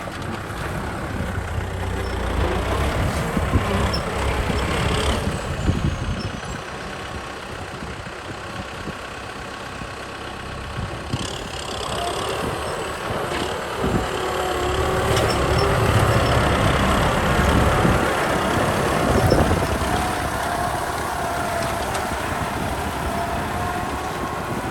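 Kubota M6040 SU tractor's diesel engine running under load while plowing through mud. It runs steadily and swells louder twice.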